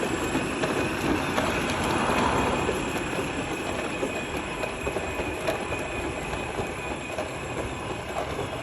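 Tractor driving along, a steady rumbling and rattling that grows slightly quieter through the stretch.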